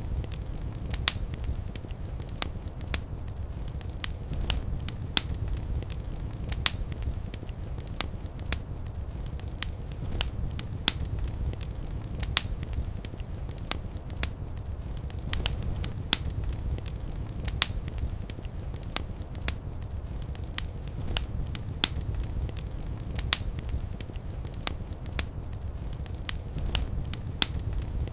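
Fire burning in a fireplace: a steady low rumble with frequent sharp crackles and pops at irregular intervals.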